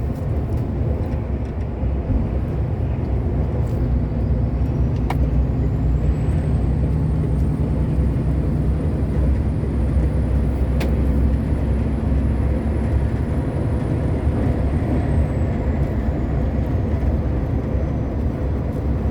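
Steady drone of a truck's engine and tyre noise heard inside the cab while driving at highway speed. A faint high whine rises about five seconds in, holds, and falls away near the end, with a couple of light clicks.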